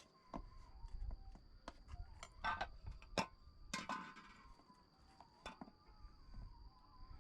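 Scattered light clicks and knocks, a few louder ones about two and a half to four seconds in, over a steady high-pitched cricket trill.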